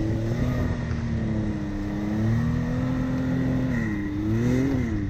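A vehicle engine running, its pitch holding steady, then dipping, rising briefly and falling again near the end as it is revved.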